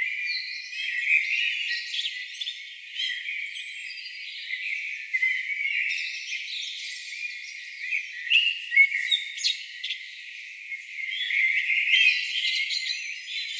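Chorus of several songbirds singing at once, overlapping chirps, trills and whistled phrases with no pause. Only the high notes are there; everything low has been filtered out.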